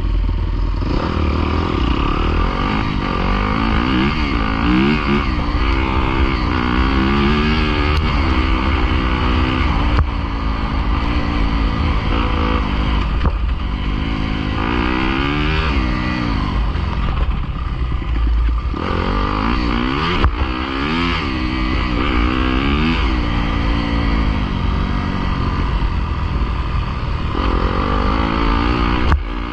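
Dirt bike engines revving, climbing in pitch and dropping off again over and over, over a steady low rumble.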